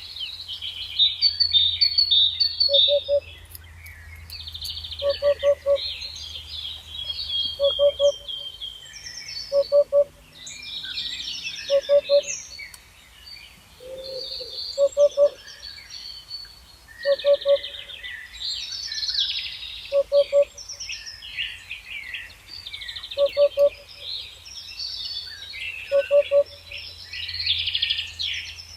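Wild birds singing in a dense chorus of high chirps and warbles. Through it, a low hooting call of three quick notes repeats about every two to three seconds.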